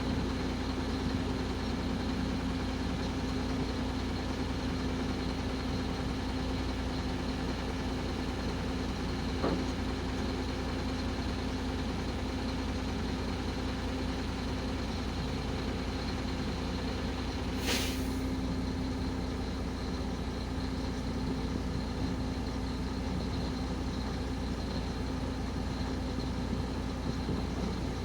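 Heavy truck's diesel engine running steadily, with a constant low drone and a thin high whine over it. A short hiss of air comes about two-thirds of the way through.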